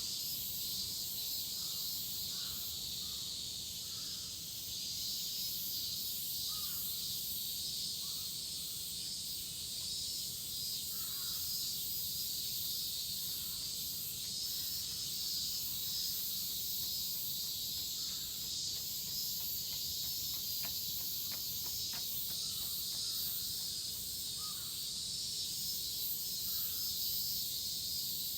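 Chorus of cicadas buzzing steadily in a high, dense drone, with short bird calls scattered over it.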